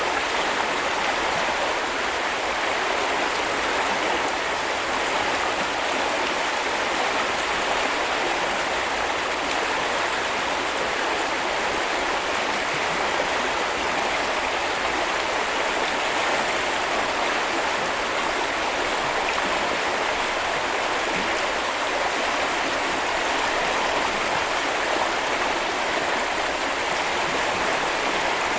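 Small river or brook flowing over stones: a steady, even rush of water.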